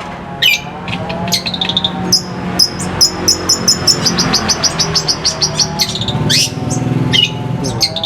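Songbird singing: a few sharp calls, then from about two seconds in a fast run of repeated high chirping notes, with quick sweeping calls near the end, over a steady low drone.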